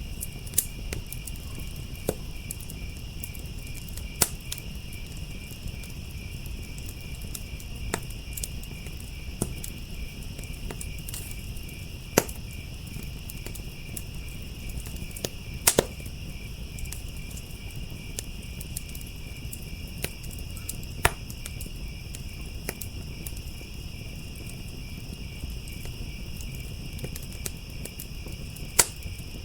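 Wood fire crackling, with sharp pops every second or so and a few louder ones, over a low steady rumble. Crickets chirp in a steady, high, fast-pulsing chorus behind it.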